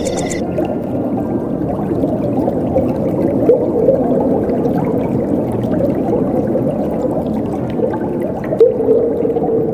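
Running water gurgling steadily, like a stream flowing over stones. Night crickets chirping in high steady tones stop about half a second in.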